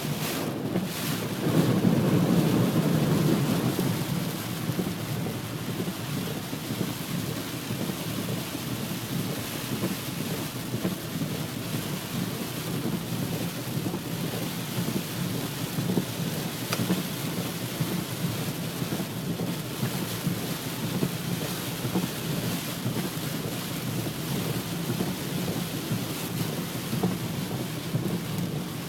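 Heavy rain falling steadily, with a louder low rumble for about two seconds near the start.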